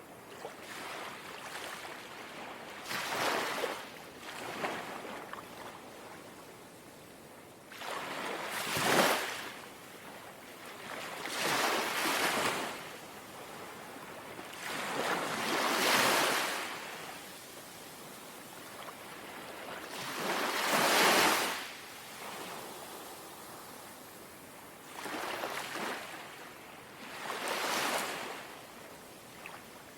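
Small, gentle sea waves lapping onto the shore, one swell of wash every three to four seconds over a soft steady hiss of water.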